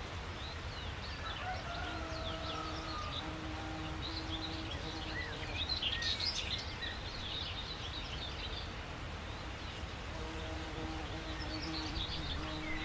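Several small songbirds chirping and twittering in quick, overlapping calls, busiest about halfway through and again near the end. Underneath are a steady low rumble and a faint on-and-off hum.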